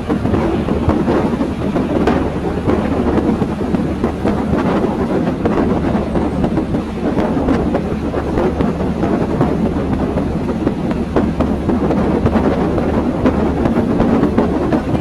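A passenger train running along the track, heard from on board: a steady rumble of wheels on rail with a low hum and occasional sharp clacks.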